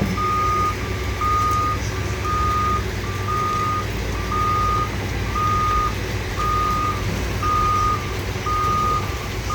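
A heavy vehicle's back-up alarm beeps steadily at one pitch, about once a second, over the low rumble of diesel engines.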